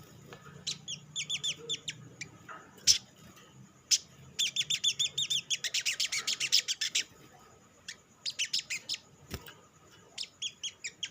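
Olive-backed sunbird calling in rapid runs of high, sharp falling chirps, in several bursts with the longest run about halfway through. This is the kind of call used as a lure to get other sunbirds singing. Two sharp clicks come between the bursts, about three and four seconds in.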